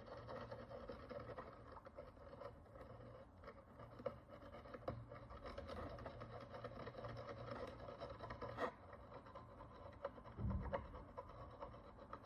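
Faint scratching and scraping of a small hand tool working the dirt and oxidation crust off an ancient Roman bronze coin, with a few sharp ticks. A steady low hum runs underneath, and there is a soft low thump about ten seconds in.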